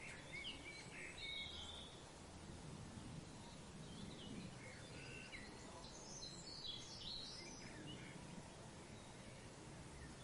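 Faint outdoor ambience with birds chirping: scattered short calls, busiest a little after the middle, over a soft steady background hiss.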